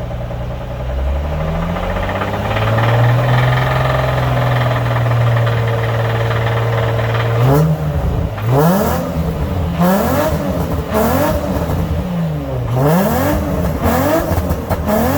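Nissan 350Z's VQ35DE V6 engine and exhaust, heard from a camera held out of the car: the engine climbs to a steady held speed, then about halfway through is revved up and down repeatedly in quick sweeps. The engine has a rod knock.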